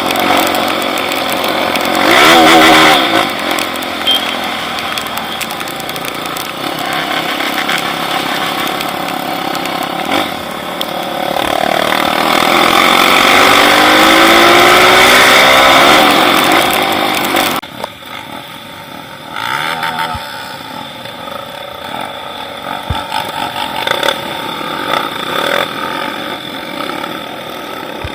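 Trail motorcycle engine revving up and down over a loud rush of wind noise; the level drops suddenly about two-thirds of the way through and the engine carries on more quietly.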